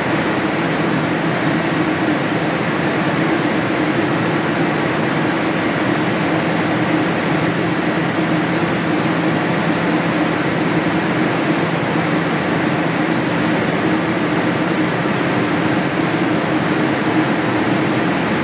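Steady cabin noise inside a Boeing 787-8 Dreamliner on its landing flight: a constant rush of air with a low, even drone running under it.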